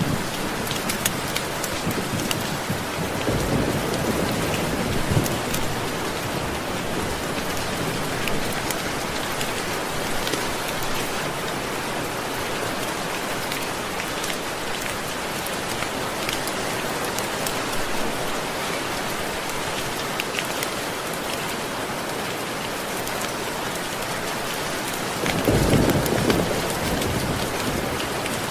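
Steady rain falling, with a low rumble of thunder about three seconds in and another, louder one near the end.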